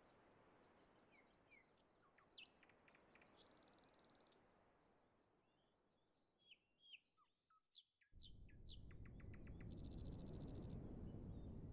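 Faint birds chirping and calling, with short rising and falling chirps and a couple of rapid high trills. About eight seconds in, a steady hiss starts abruptly and becomes the loudest sound.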